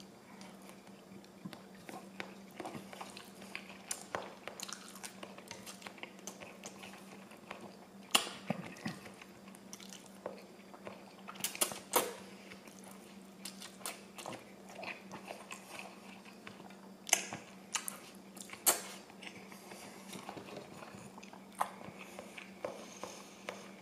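A person chewing a mouthful of pad thai rice noodles, with wet mouth noises and scattered sharp clicks and smacks, several of them louder. A faint steady low hum lies under it throughout.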